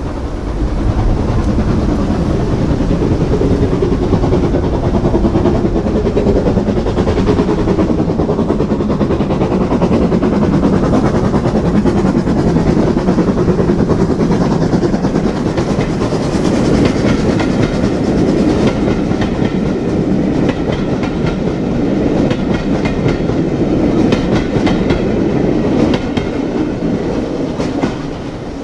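Steam-hauled train passing close by with a loud, sustained rumble. In the second half the wheels clatter over the rail joints in a rapid run of clicks, and the sound eases off near the end.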